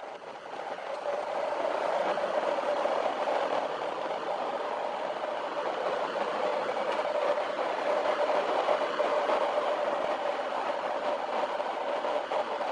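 Motorhome driving, heard from inside the cab: steady engine and road noise with light rattles, growing louder over the first two seconds as it picks up speed, then holding steady.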